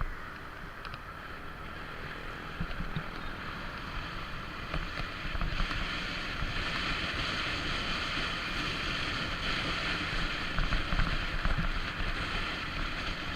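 Wind rushing past the microphone with the road and engine noise of a moving motorcycle, growing louder about five seconds in.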